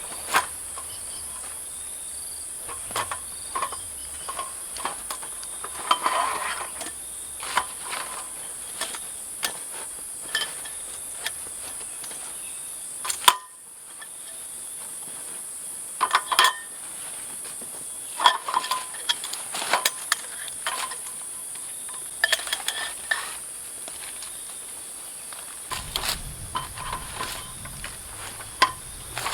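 Steady high-pitched chorus of forest insects, with scattered short knocks and clinks close by. The whole sound briefly cuts out about halfway through.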